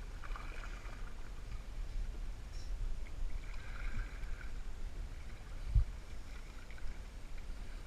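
Canoe afloat on a river: a low steady rumble with faint water sounds, and one dull knock about six seconds in.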